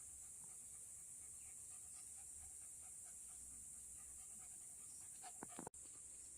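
Faint rapid panting of a pet, an even repeating breath over a steady high hiss, with a few short sharper sounds near the end.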